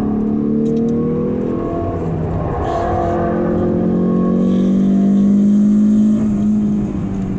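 Mazda 323F BG GT's four-cylinder engine heard from inside the cabin under hard driving on track. The revs climb steadily through most of it, then fall away sharply about six seconds in.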